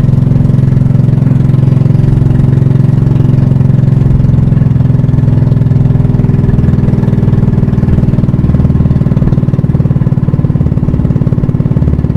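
A banka (pump boat) engine running steadily at a constant speed, with a fast, even beat.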